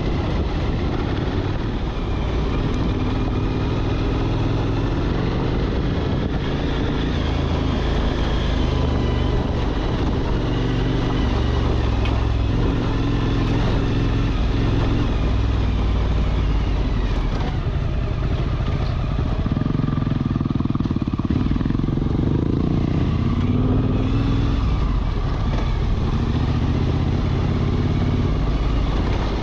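Motorcycle engine running under way, its pitch rising and falling with throttle and gear changes.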